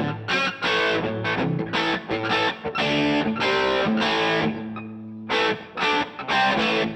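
Distorted electric guitar played through the DVII amp: a run of quick, repeated chords. Near the middle the playing pauses briefly on one ringing chord that fades before the chords resume.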